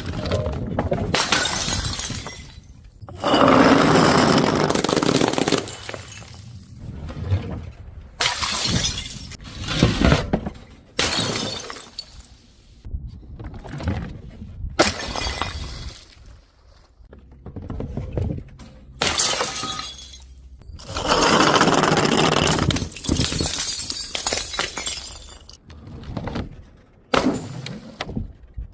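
Glass bottles and jars breaking one after another: a series of shattering crashes, some running on for two or three seconds as the glass crunches and breaks apart.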